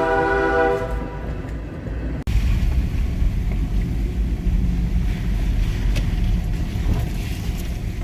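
Train horn sounding a chord of several notes, ending about a second in. After an abrupt break, a steady low vehicle rumble.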